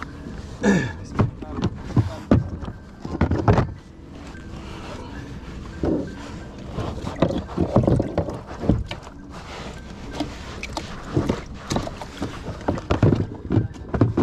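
Kayak on the water: irregular splashes and sharp knocks over a steady rushing noise.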